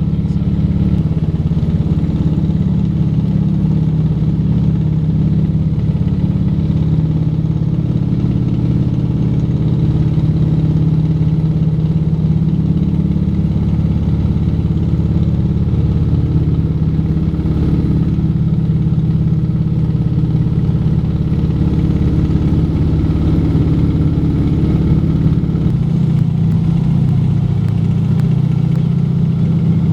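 Junkers Ju 52's three radial engines droning steadily in cruise flight. The engine note shifts slightly near the end.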